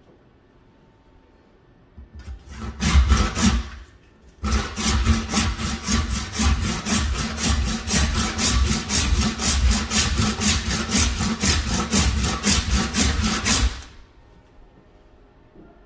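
Hand saw cutting through buffalo leg, rapid back-and-forth strokes about three a second: a short burst, a brief stop, then a steady run of about nine seconds.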